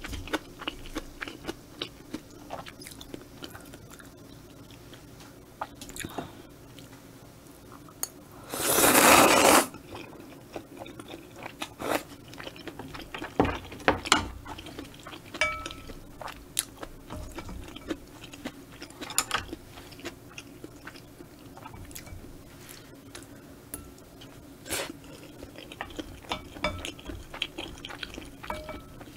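Close-miked chewing and biting of spicy stir-fried squid and udon noodles: many small wet clicks and crunches, with one loud rush of noise lasting about a second about a third of the way in.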